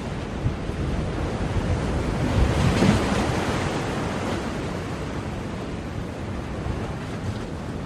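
Ocean waves breaking on a shore: a steady wash of surf, with one wave swelling and crashing about three seconds in, then receding.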